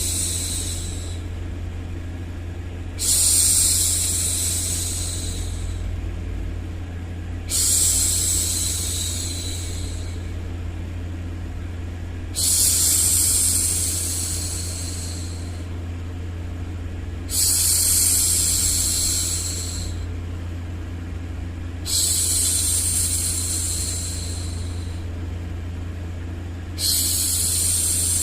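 A woman's voice making long hushing 'shhh' sounds, one about every five seconds, each starting suddenly and fading out over a couple of seconds. Under them runs a steady low hum of noise.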